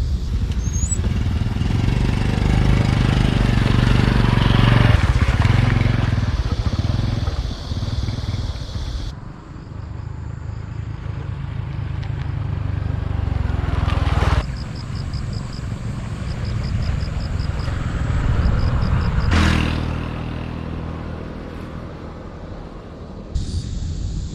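Honda Super Cub's small single-cylinder four-stroke engine running while riding, swelling and easing as the throttle changes. The sound changes abruptly three or four times.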